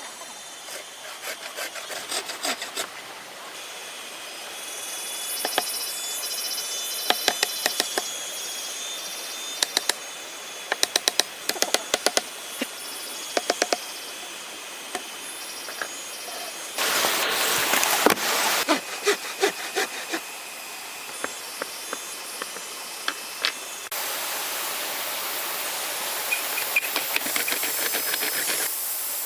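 Bamboo being worked with hand tools: a run of sharp taps and knocks, a short burst of rasping, sawing-like noise about two-thirds of the way in, then a steady hiss.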